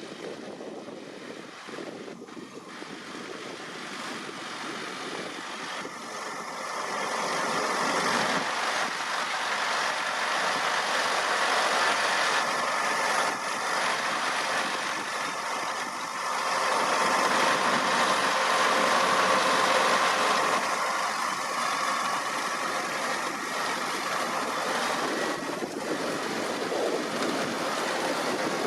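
Deutz-Fahr 6150.4 tractor running at work in a potato harvest, its steady mechanical noise growing louder about a quarter of the way in and staying loud.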